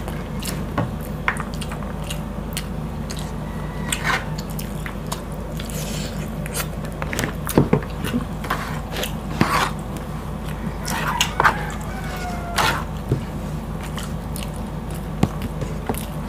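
Close-miked chewing and mouth sounds of two people eating pork and rice by hand, with many short, sharp clicks and smacks over a steady low hum.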